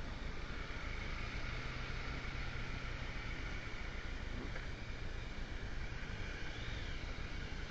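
Motorcycle engine running steadily, a low even hum under a constant rushing noise.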